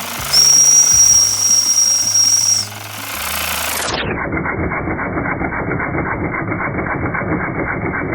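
Wilesco D10 toy steam engine running with a rapid chatter while its steam whistle blows a steady high tone for about two seconds. About four seconds in, the sound turns dull and muffled with an even, rapid pulse: the running engine's sound slowed down.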